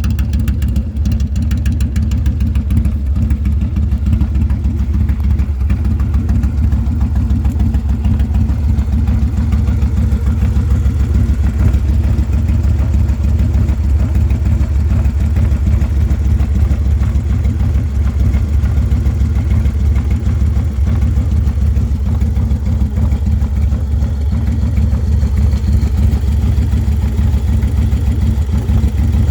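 Harley-Davidson Low Rider S's 110 cubic-inch V-twin idling steadily through a Sawicki Speed 2-into-1 exhaust, a low, even beat of firing pulses that holds constant throughout.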